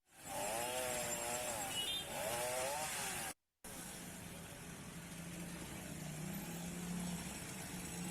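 Chainsaw running, its engine pitch rising and falling as it cuts through fallen trees. After a brief dropout about three seconds in, a steadier, quieter low engine hum continues.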